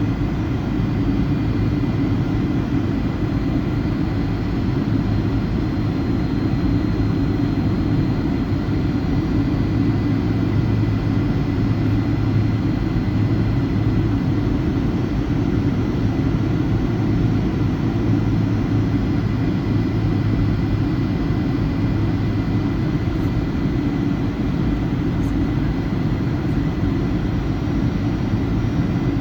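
Steady cabin drone of a Boeing 757-200's twin turbofan engines in flight, a deep rumble with a faint steady whine above it.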